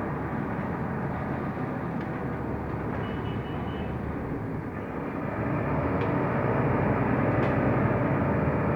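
Interior running noise of a Mercedes-Benz O345 Conecto LF city bus under way, with engine and road noise that grows louder about five and a half seconds in. A brief faint high tone sounds around three seconds in.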